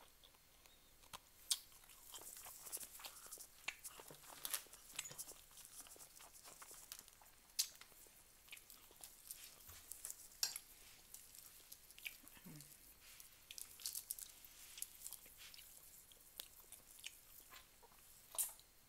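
Close-up eating sounds: wet chewing and lip smacks with scattered sharp clicks, a few of them louder, as food is eaten by hand.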